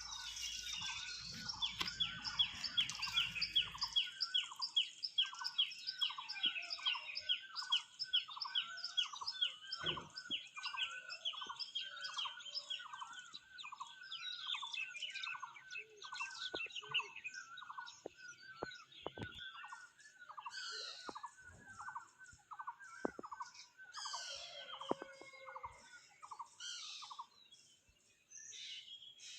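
Several wild birds calling: one repeats a short hooked note about twice a second for most of the time, over a fast run of higher, thinner chirps during the first half, with scattered other chirps later on.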